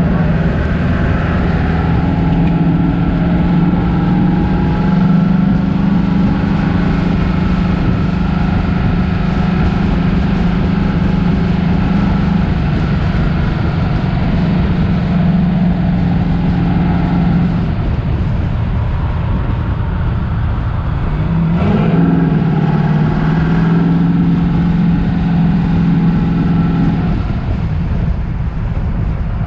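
Car engine and exhaust droning steadily while under way, over constant road noise. The drone fades away a little past halfway. About three-quarters of the way through the revs rise, then hold steady again before easing off near the end.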